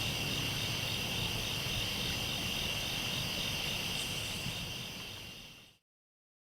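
A chorus of night crickets chirping steadily in a fast, even pulse, fading out about five seconds in to complete silence.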